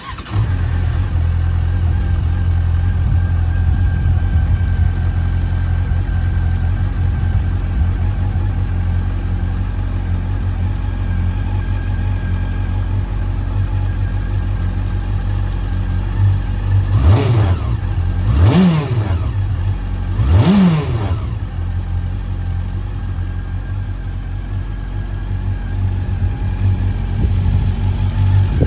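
Honda CB400 Super Bol d'Or's inline four-cylinder engine coming to life and idling steadily, then revved in three quick throttle blips in a row a little past halfway, each rising and falling back, before settling back to idle.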